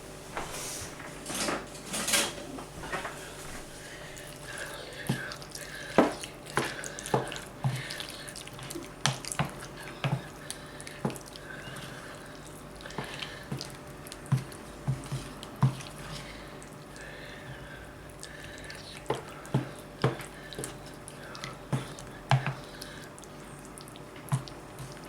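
A wooden spoon stirring chunks of raw chicken through a wet, blended yoghurt marinade in a bowl: wet squelching with irregular knocks of the spoon against the bowl.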